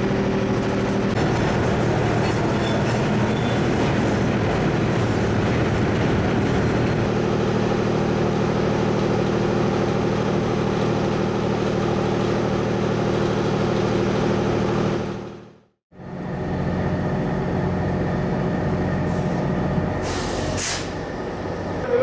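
Diesel-hauled freight train running, with a steady engine drone and the boxcars rolling and rattling on the rails. It cuts off briefly, then a diesel engine drones steadily, with a short burst of hiss near the end.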